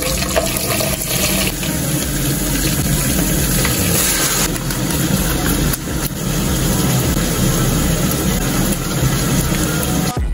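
Steady sizzling of sliced red onions and tomato frying in hot oil in a stew pot.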